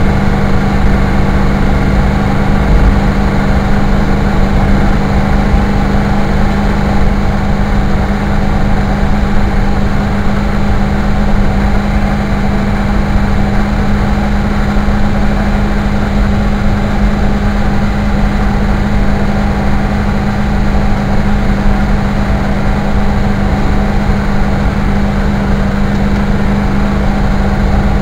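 Car engine and road noise while driving at a steady speed: an even, unbroken drone with a strong low hum.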